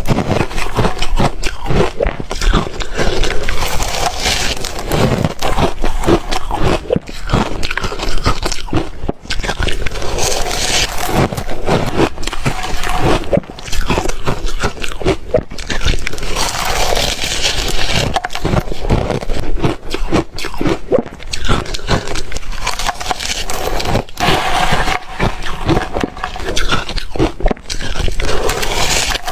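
A person biting and chewing reshaved freezer ice close to the microphone: a dense, continuous run of sharp crunches and crackles.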